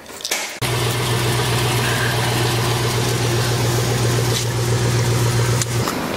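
Car engine running, heard from inside the cabin: a steady low hum with road and engine noise over it, starting abruptly about half a second in and cutting off suddenly near the end.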